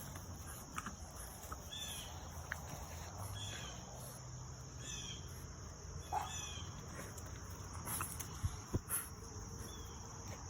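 Steady high insect trilling, with several short falling chirps scattered through and a few sharp knocks near the end.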